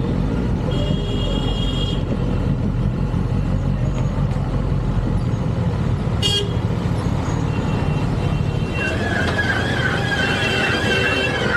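Motorcycle engine running steadily, with a vehicle horn sounding for about a second near the start.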